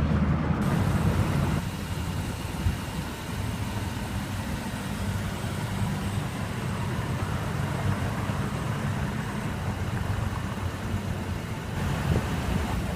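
Steady low rumble of outdoor background noise, slightly louder near the end.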